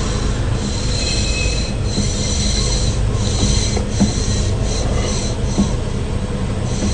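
A car's power steering system whining and squealing over the low hum of the running engine, with steady high tones and a few light ticks.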